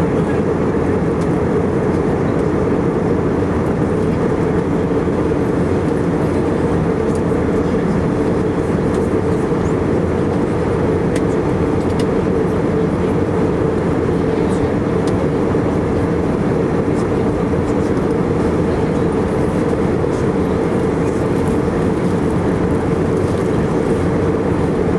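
Steady in-flight drone of an Airbus A319-115, engine and airflow noise heard inside the passenger cabin. It holds level throughout, with most of the sound low to mid in pitch.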